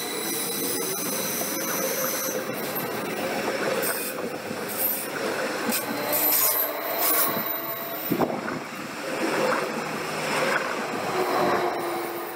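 A train running past on the rails: a steady rush of wheel and track noise, with thin high squealing tones coming and going above it.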